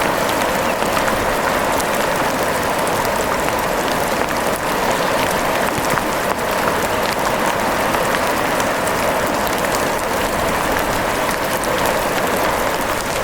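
Steady rain, an even hiss of falling water with many small drop ticks scattered through it.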